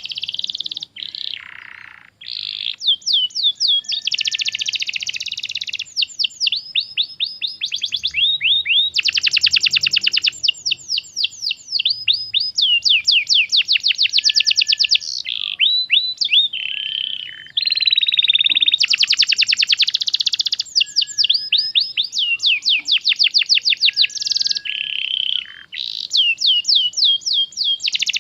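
Domestic canary singing a long, nearly unbroken song of rapid trills. Each phrase is a fast run of repeated notes that changes speed and pitch every second or two.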